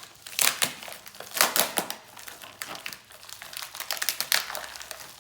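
Packaging being worked open by hand, crinkling and crackling in quick, irregular bursts, with a few sharper crackles about half a second and a second and a half in.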